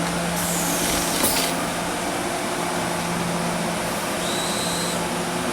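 Steady hiss and low hum of a passenger train car, with a brief brighter rush of air about half a second in and a short high tone later on.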